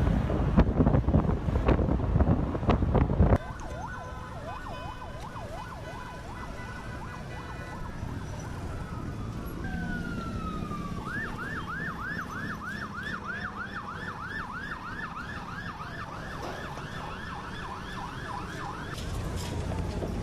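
Emergency vehicle sirens. A slow wail comes in about four seconds in, then a fast yelp of about three sweeps a second runs from about eleven seconds until near the end. Before the sirens, a loud rush of noise with knocks cuts off abruptly about three seconds in.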